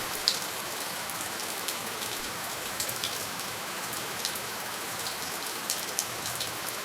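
Steady rainfall, an even hiss with scattered sharp drops landing close by, and no thunder.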